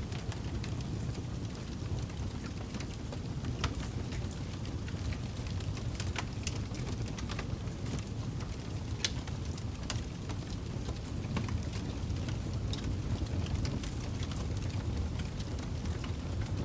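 Campfire burning: a steady low rumble of flames with irregular sharp crackles and pops of burning wood.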